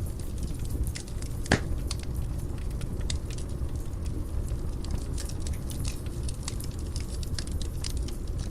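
Wood fire burning in a fireplace, with a steady low rumble of flame and frequent sharp pops and crackles. The loudest pop comes about a second and a half in.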